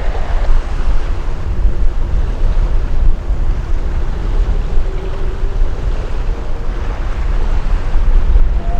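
Wind buffeting the microphone: a heavy, uneven low rumble that swells and dips with the gusts.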